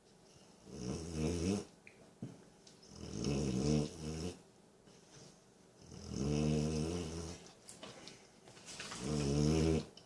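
A sleeping dog snoring: four rattling snores, each about a second long, about every three seconds, with quiet breaths between.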